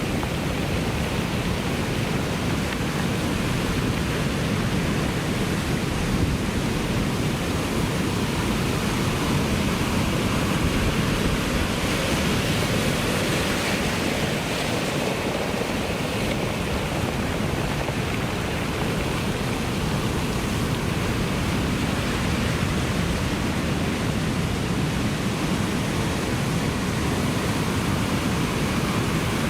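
Ocean surf: a continuous, even wash of waves with no distinct individual breakers, swelling a little about midway.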